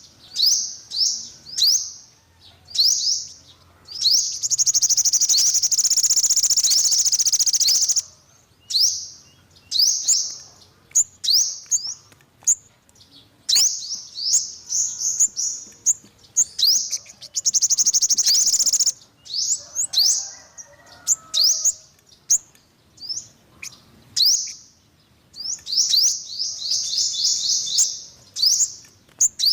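Yellow-bellied sunbird calling: a series of sharp, high chirps that each drop in pitch. Two fast buzzing trills break the chirps, one of about four seconds a few seconds in and a shorter one past the middle, and a quick run of repeated notes comes near the end.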